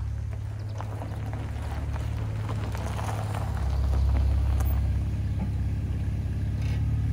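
BMW 325Ci E46's 2.5-litre straight-six engine running as the car drives slowly toward the microphone and past it, louder as it comes closest about four seconds in.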